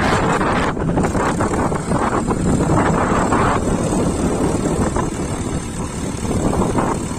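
Powertrac 434 Plus tractor's diesel engine running hard under load with a dumper trolley, a steady low rumble, with wind buffeting the microphone.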